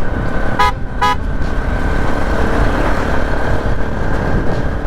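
Two short vehicle-horn beeps about half a second apart near the start, over the steady road and engine noise of a motorcycle being ridden in traffic.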